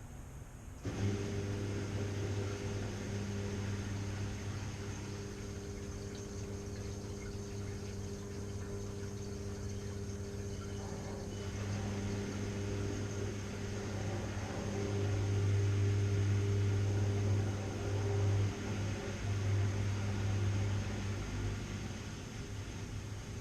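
Washing machine running: about a second in, a motor cuts in with a steady low hum. The hum grows louder in the second half, then eases near the end.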